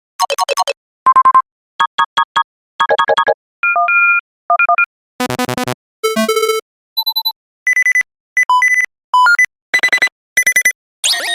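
A string of short synthesized beep and blip sound effects played one after another, about fifteen in all, each a different pitched pattern lasting well under a second, with brief silences between them.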